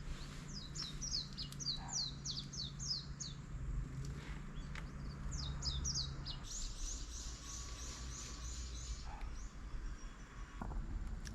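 A small bird singing: two runs of quick, high, downward-sliding chirps, then a fast even trill of short notes. A low steady hum runs underneath and stops a little past halfway.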